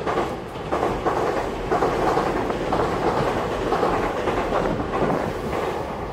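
Electric commuter train running along the track, its wheels clacking over the rail joints. The sound swells at the start and eases off toward the end.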